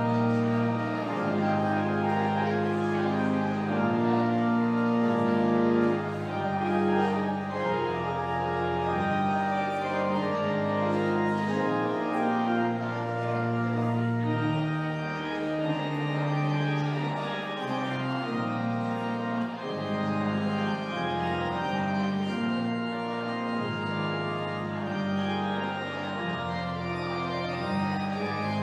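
Church organ playing the postlude at the close of the service: sustained chords changing every second or two over held bass notes.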